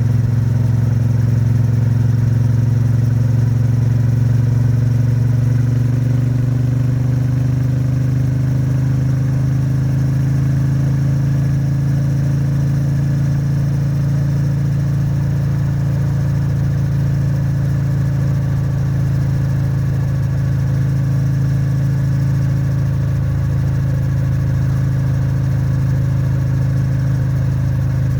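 Triumph Bonneville T100's 900 cc parallel-twin engine and exhaust at steady highway cruise, held at moderate revs late in its break-in period. The engine note rises gently over the first several seconds, then holds steady.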